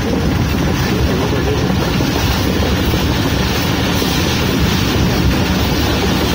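Passenger train running at speed, heard from inside the carriage: a loud, steady rumble of wheels on the rails mixed with rushing air.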